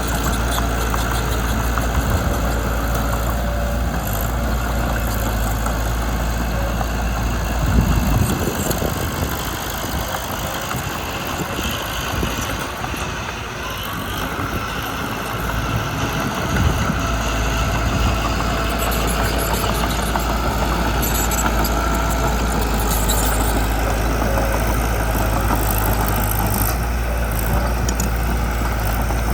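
Mitsubishi BD2 bulldozer's diesel engine running, a steady low drone that eases off between about 8 and 17 seconds in and then comes back. There is a short knock about 8 seconds in.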